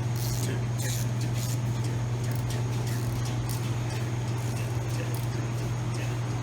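A steady low hum with a few faint clicks and taps over it.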